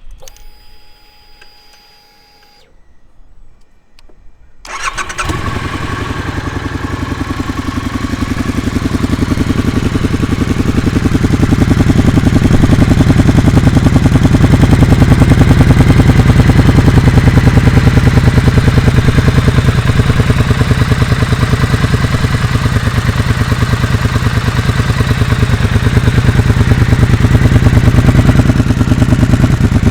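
Triumph Thruxton R 1200 parallel-twin engine started about five seconds in, then idling with a loud, fast, even pulsing through a full stainless 2-into-1 exhaust with the catalytic converter and second silencer removed. It grows louder over several seconds after starting, then runs steady.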